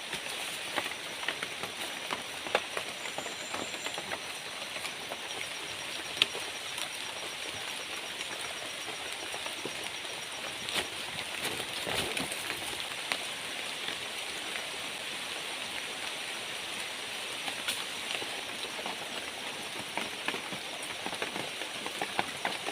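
Steady rain falling, with many small drops and a few louder drips tapping.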